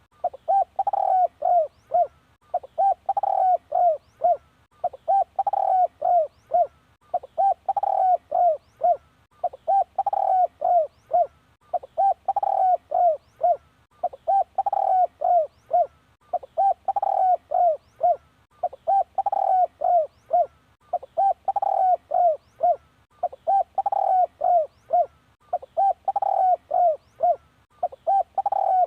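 Spotted dove cooing: the same short phrase of several low coo notes, repeated about every two and a half seconds.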